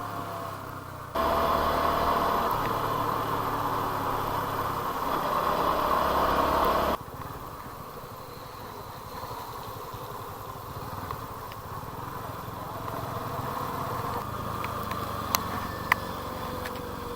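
Motorcycle engine running, with a loud rushing noise that cuts in about a second in and stops abruptly about seven seconds in. Two sharp clicks near the end.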